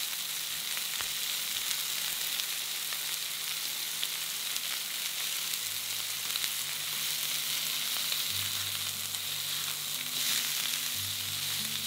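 Pork patties and thick tomato slices sizzling in olive oil in a nonstick frying pan, a steady frying hiss. Near the end a spatula turns a patty over and the sizzle briefly gets louder.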